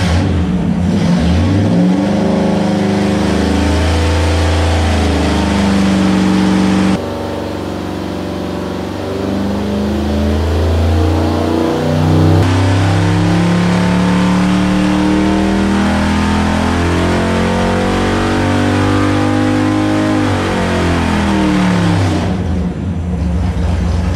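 Chevrolet 327 small-block V8 on an engine dynamometer making a full-throttle pull: it climbs steadily in pitch under load, then drops back toward idle near the end.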